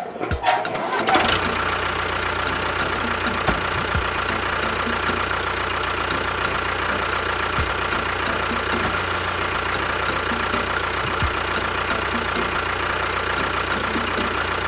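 An engine catches about a second in after some clattering, then runs steadily with a low hum, a held whine and a light, regular ticking.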